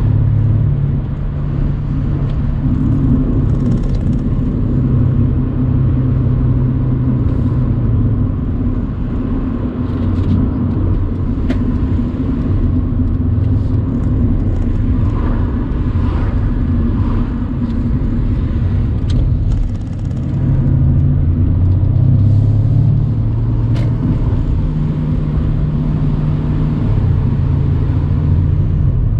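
Mercedes-AMG C63 cabriolet's twin-turbo V8 under way on a country road with the roof open. The engine note shifts up and down several times as the car speeds up and eases off, over steady road noise.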